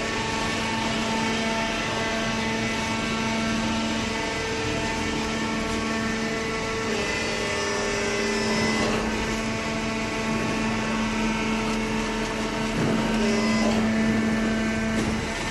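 Hydraulic power unit of a cardboard baler running with a steady hum. The pitch of the hum shifts about seven seconds in, and a few brief knocks come near the end.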